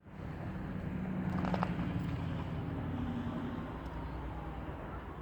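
Garbage truck engine running steadily, a low drone that swells slightly about a second and a half in and then eases.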